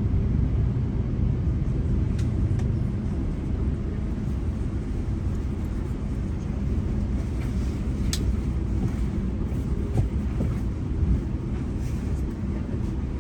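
GO commuter train running along the line, heard from on board: a steady low rumble with a few sharp clicks and ticks, the loudest about eight seconds in.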